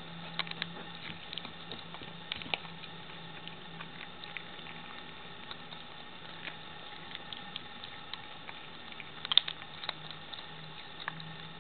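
A cat chewing raw chicken on the bone: irregular wet clicks and crunches as it bites through meat and bone, with the loudest cluster of crunches about nine seconds in.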